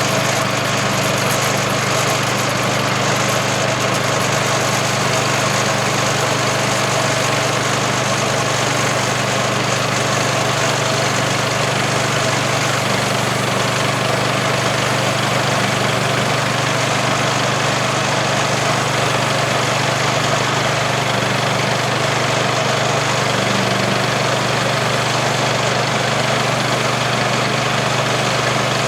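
Woodland Mills HM126 portable bandsaw mill running steadily under power as it cuts the tops off two cedar posts.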